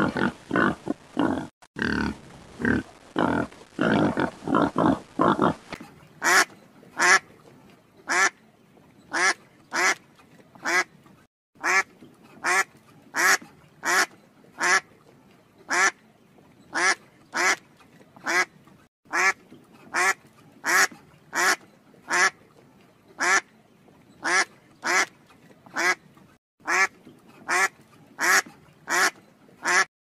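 A pig grunting in quick succession, then from about six seconds in, ducks quacking in short, evenly spaced calls, about one and a half a second.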